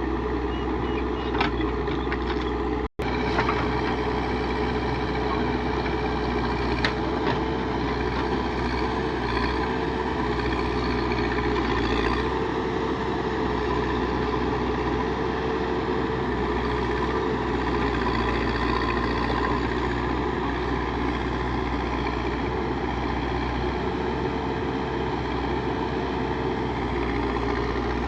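Backhoe loader's diesel engine running steadily as it works, with a very short break in the sound about three seconds in.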